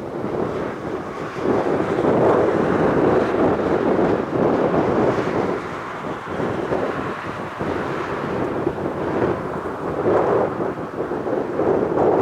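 Aircraft engine rumble, swelling and easing in loudness, loudest a couple of seconds in and again near the end.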